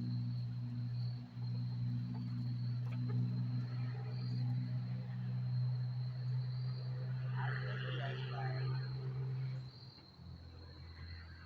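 Insects buzzing continuously over a steady low hum; the hum drops lower and quieter near the end. A short animal call sounds about eight seconds in.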